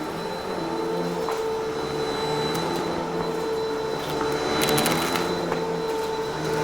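Vacuum cleaner running steadily, its motor whine wavering in pitch as it works. About four and a half seconds in, a quick run of crackling clicks sounds as debris is sucked up.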